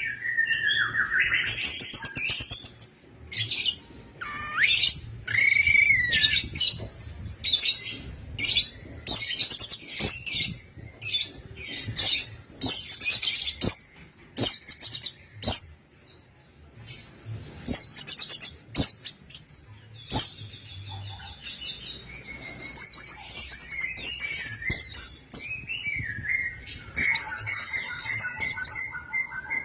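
Orange-headed thrush singing: a long run of short, rapid trilled and chattering phrases with a few lower whistled slurs. Near the end comes a held, steady whistled note.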